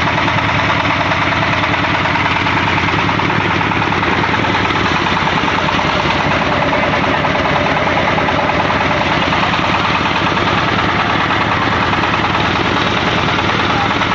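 Stationary diesel engine driving a pellet mill through a pulley, running at a steady speed with an even, rapid firing beat.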